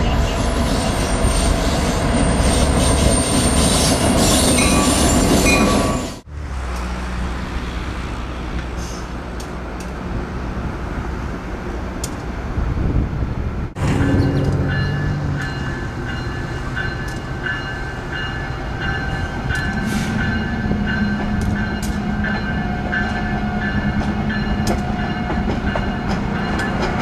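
Train running past, a steady rumble of locomotive and rolling cars on the rails. The sound breaks off abruptly twice, about six and fourteen seconds in, where one shot cuts to the next.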